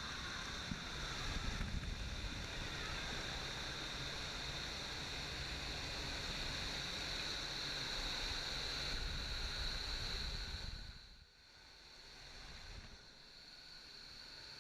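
Indoor skydiving wind tunnel's airflow rushing steadily, with a constant high whine on top. The rush drops sharply about eleven seconds in and comes back quieter.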